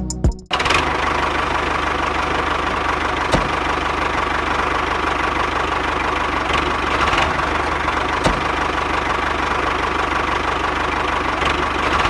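A small motor running steadily with a constant whine and a low, even pulsing, with a few light clicks; it follows a short bit of music that cuts off about half a second in.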